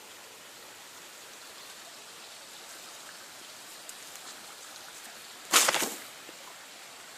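Steady outdoor background hiss, broken by one short, loud rustle about five and a half seconds in.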